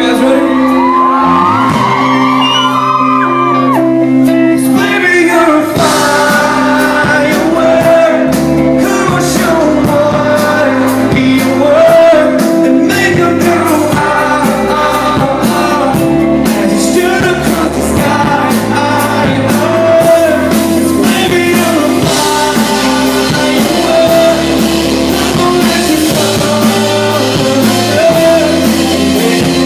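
Live band music with singing, played to an audience in a large concert hall; a steady drum beat comes in about five seconds in.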